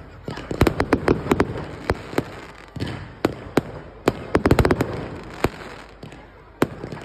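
Fireworks going off: a run of sharp bangs and crackles, bunched in quick clusters about half a second in and again around four and a half seconds, with single bangs spaced between.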